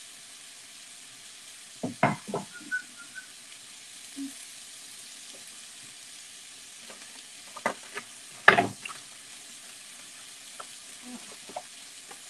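Chicken, onion and zucchini frying in a cast-iron pan with a steady sizzle. Sharp kitchen knocks and clatter about two seconds in and again around eight seconds in, the second cluster the loudest.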